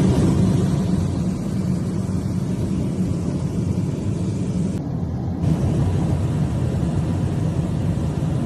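Steady, loud rushing roar inside an airliner cabin in flight.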